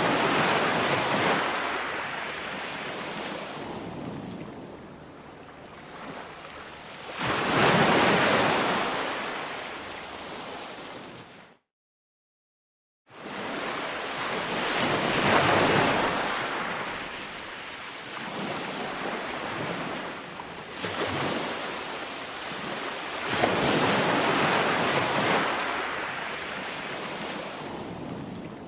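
Ocean waves breaking on a shore, each wave swelling into a loud rushing surge and washing back, about one every seven to eight seconds. About eleven seconds in, the sound cuts to complete silence for about a second and a half, then the surf resumes.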